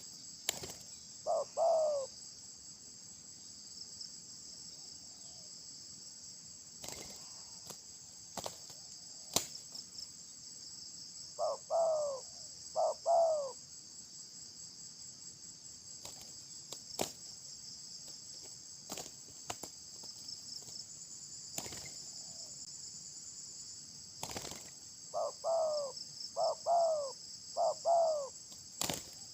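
Steady shrill chorus of insects such as crickets. Over it, short falling call notes come twice near the start, twice again in the middle and four times near the end, with scattered sharp clicks.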